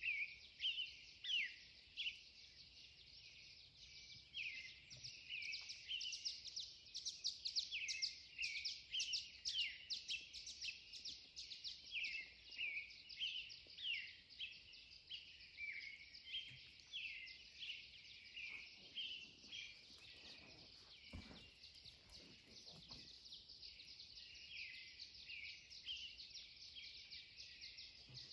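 Pre-dawn chorus of several songbirds: rapid, overlapping short chirps and trills that never stop, busiest and loudest in the first half.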